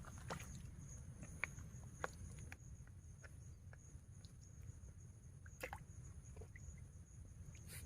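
Insects droning steadily at a high pitch, with scattered faint clicks and snaps, a sharper one near the end.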